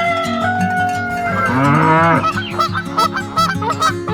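Farm-animal calls over rhythmic background music, with one long wavering call about a second and a half in, followed by short repeated chirping calls.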